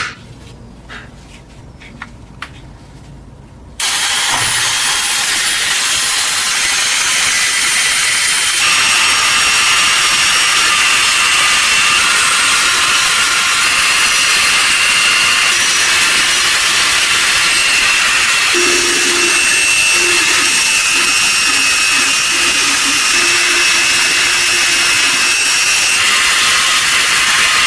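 A few light clicks, then about four seconds in a power tool starts abruptly and runs steadily: a loud, high-pitched noise with a faint whine.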